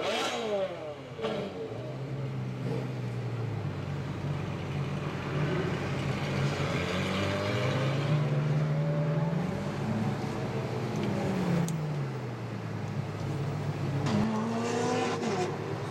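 Ferrari FF's V12 engine pulling under way, its pitch climbing and settling as it accelerates and eases off, with a steady fall in revs a little past the middle. There are quick, sharp revs near the start and again near the end.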